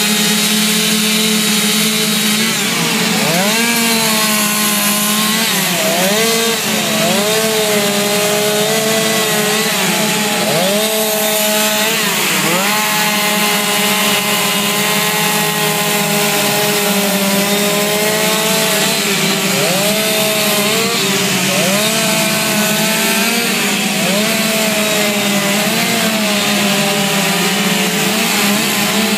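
Chainsaw running at high speed while carving wood. Its engine note dips briefly several times as the chain bites into the wood under load, then recovers.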